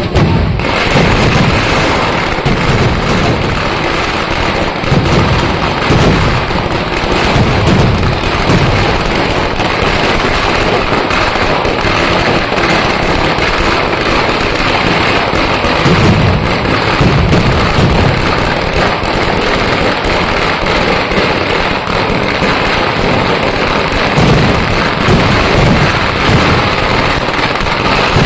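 Fireworks going off in a continuous, dense barrage of rapid bangs and crackling, with no pause, swelling deeper several times.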